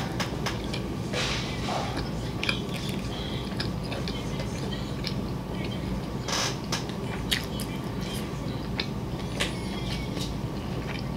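Close-miked eating: scattered small wet clicks and smacks of chewing, with light taps of chopsticks, over a steady low hum.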